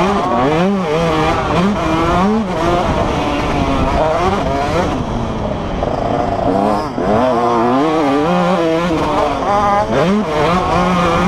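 Several motocross bike engines revving hard on the track, their pitch repeatedly climbing and dropping as the riders accelerate and shut off, with more than one bike heard at once.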